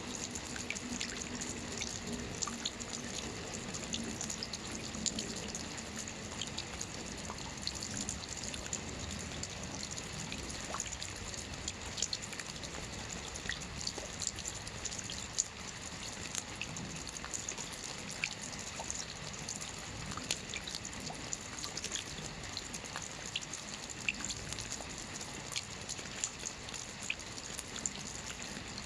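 Steady rain falling on a lake's surface: an even wash of water noise dotted with many small drops and plinks.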